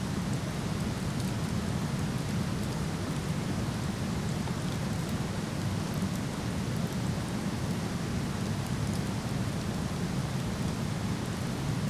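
Steady rushing roar of a waterfall, with the faint scattered crackle of a wood campfire on top.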